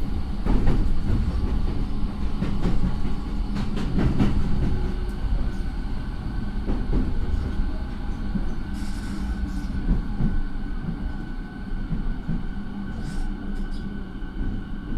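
Running noise heard inside a JR 209 series electric motor car refitted with a Mitsubishi IGBT inverter and MT68 traction motors: steady wheel and track rumble with several sharp clicks over rail joints in the first half. About halfway through a steady high whine comes in while the overall noise slowly falls away.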